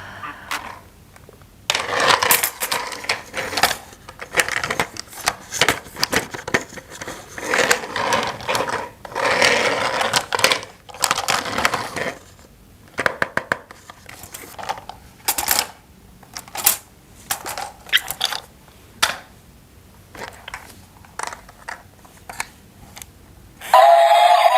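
Hard plastic toy parts being handled and fitted together, clattering and clicking in irregular bursts with short pauses between them.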